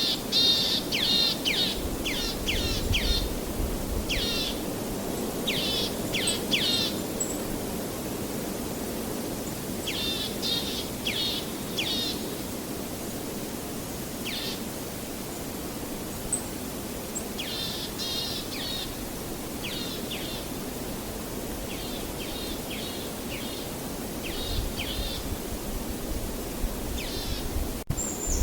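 Songbird chirping in quick runs of short, high, down-sweeping notes, repeated in bursts every few seconds over a steady rushing background of natural ambience.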